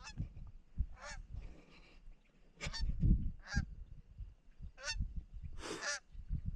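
Canada geese honking overhead, about six single honks spread irregularly through a few seconds, with low rumbling underneath.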